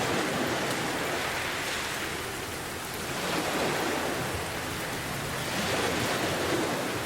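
Steady heavy rain mixed with ocean waves, the sound swelling and easing gently about three times as waves wash in.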